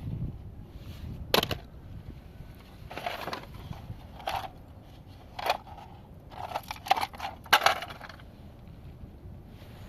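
A series of sharp knocks and cracking clatters, uneven in timing, as a hard object is struck and smashed, with a quick cluster of blows near the end that is the loudest.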